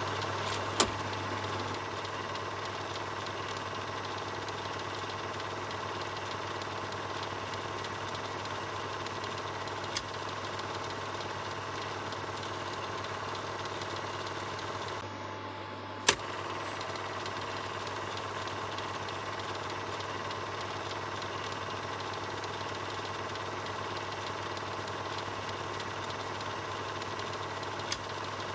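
Film projector running with a steady mechanical whir over a low hum, broken by a few sharp clicks. The loudest click comes about sixteen seconds in, just after a brief dip in the sound.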